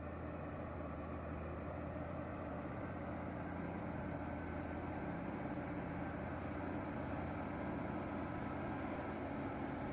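Truck's diesel engine running steadily in a low gear as it climbs under load.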